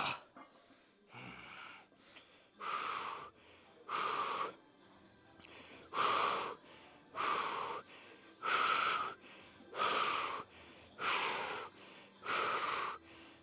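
A man breathing hard and forcefully through a heavy set of hack squats, with about nine sharp, raspy breaths evenly spaced about a second and a half apart, one with each rep under a near-maximal load.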